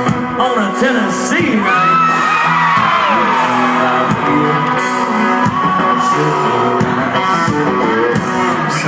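Live country-rock band playing loudly, with whoops and yells from the crowd about two to four seconds in.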